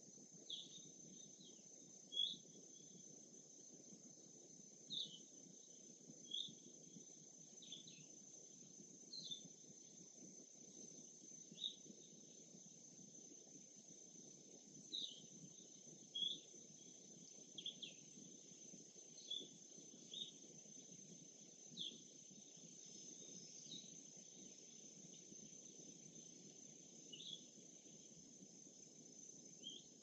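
Faint lakeside ambience: a bird gives short chirps every second or two over a steady high insect drone and a soft low hiss.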